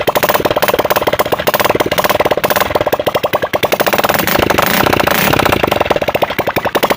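Italika motorcycle's single-cylinder engine running with its exhaust pipe removed: loud, rapid popping exhaust pulses, revved up briefly about four seconds in and easing back down.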